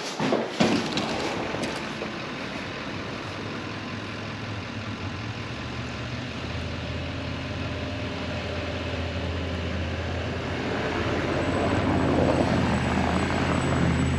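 Vehicle engine running with a steady low drone that grows louder from about halfway through, likely the truck or the stuck vehicle under load during the tow in the snow. A few knocks near the start, and a thin high whine near the end.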